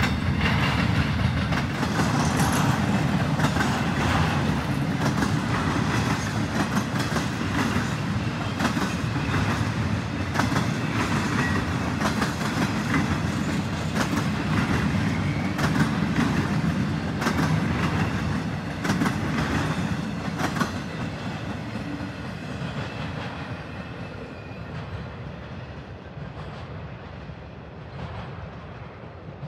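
CSX intermodal freight train of flatcars loaded with highway trailers rolling past: a steady rumble of steel wheels on rail, with a run of clicks as the wheels cross rail joints. About twenty seconds in, the end of the train goes by and the sound fades away.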